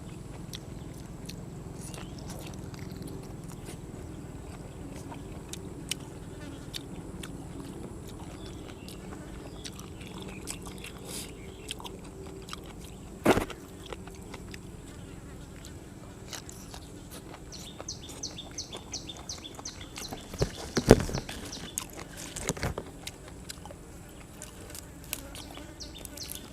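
A fly buzzing close by, a low droning hum clearest in the first several seconds, over quiet eating sounds. A few sharp knocks cut in, the loudest about 21 seconds in.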